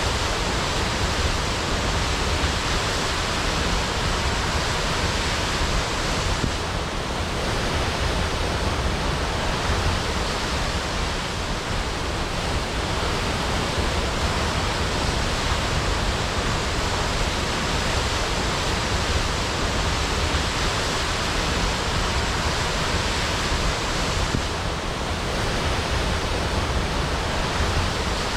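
Waterfall crashing: a steady, loud rush of falling water.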